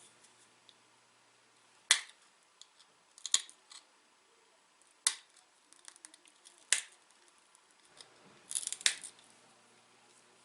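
Small flakes snapping off a dacite point as it is shaped: four sharp clicks a second or two apart, then a quick cluster of several near the end.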